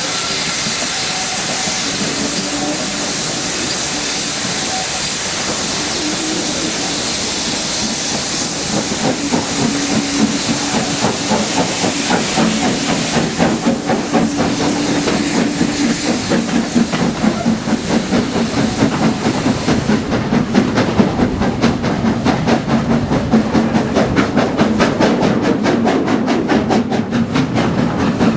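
Steam locomotive hissing steam loudly, then starting to work with a rhythmic chuffing exhaust that builds up about a third of the way in. The hiss stops about two-thirds of the way through while the regular exhaust beats carry on.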